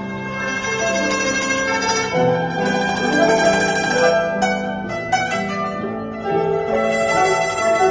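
Guzheng (Chinese zither) playing a polyphonic piece in several voices: plucked notes in low and high registers ring on and overlap in a continuous flowing line.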